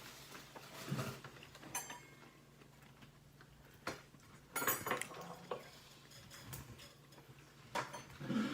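Scattered clicks, rustles and light clinks from someone handling takeout chicken wings and their container while eating, about half a dozen short sounds over a faint steady hum.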